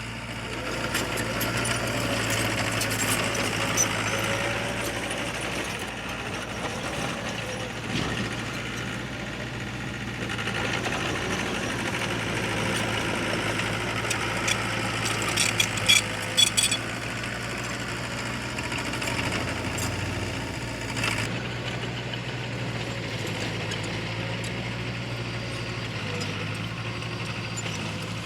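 Diesel engine of heavy earthmoving machinery running steadily, its level swelling and easing with the load. A quick run of sharp metallic clanks comes about halfway through.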